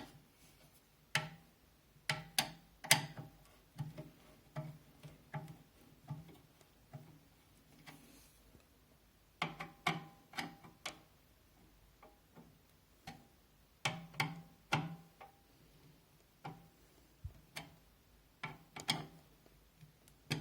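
Screws being tightened with a screwdriver to fasten case fans into a computer case: irregular groups of short clicks and ticks, with pauses between the groups.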